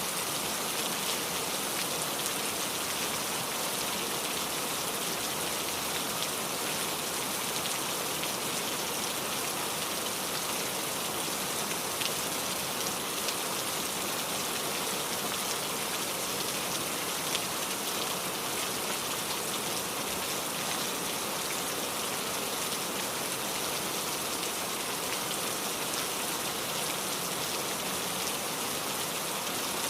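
Steady rain falling, with a dense patter of drops on a surface and now and then a single drop standing out.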